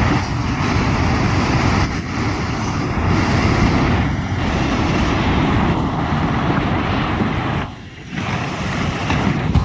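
Loud, steady rushing noise of a tsunami's seawater surging, dipping briefly near the end.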